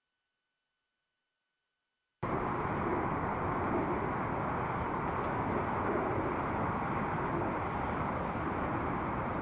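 Silence, then about two seconds in a steady outdoor rumble of city traffic starts abruptly and runs on evenly.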